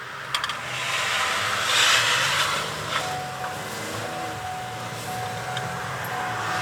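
Road noise inside a moving car, with a rushing hiss that swells to a peak about two seconds in, like a vehicle passing close by. A faint thin tone comes and goes from about three seconds in.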